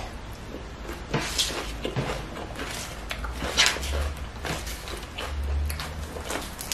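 Close-miked chewing of a bite of crisp raw red bell pepper, irregular wet crunches, with leafy greens rustling as they are picked up and folded in the hands.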